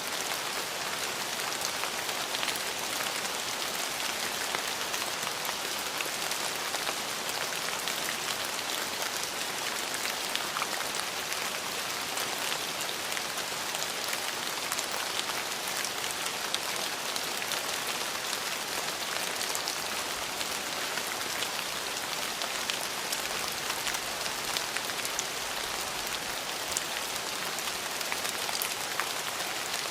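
Steady rain falling on hard surfaces, an even hiss sprinkled with fine drop ticks.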